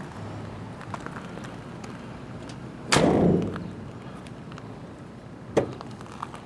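The door of a 1968 Dodge Sweptline pickup slammed shut about three seconds in: one loud thud with a short ringing decay. A single sharp click follows near the end.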